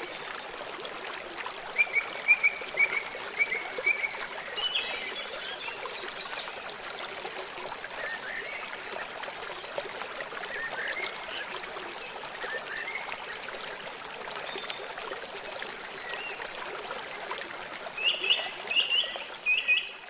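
A steady rush of running water from a stream, with small birds calling in short chirps on and off. A louder run of chirps comes near the end.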